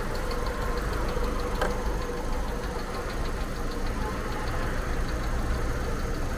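Car engine idling steadily just after being started, with a faint rapid ticking over it. It is running on a newly fitted alternator that is recharging the flat battery.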